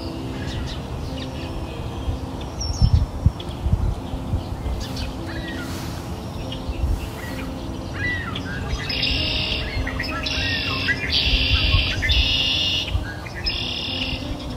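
Birds singing: a few short chirps, then a run of about five buzzy, trilled phrases in the second half, over soft held background music tones.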